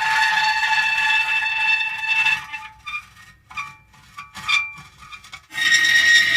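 Metal creaking: a long, high, squealing creak for about two and a half seconds, then a few short broken squeaks, then another long creak starting near the end.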